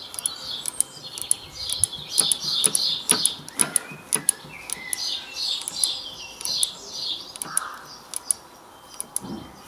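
A songbird singing: runs of quick, high chirps repeated in phrases, with scattered sharp clicks.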